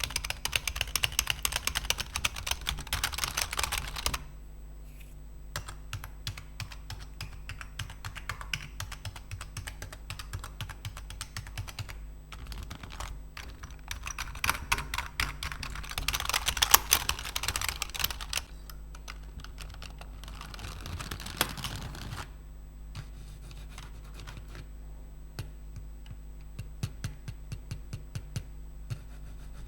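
Computer keyboard keys clacking as they are typed on. There are fast dense runs at the start and again around the middle, with scattered single key presses between and near the end.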